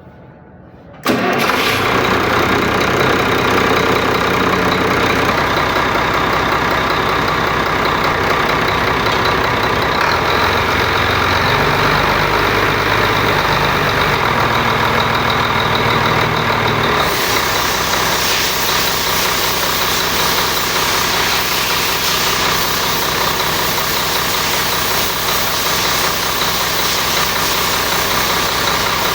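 Freshly overhauled Weichai diesel engine starting up about a second in on its first start after the rebuild, catching at once and running. Its speed shifts up and down for a while, then it settles to a steady idle near the end.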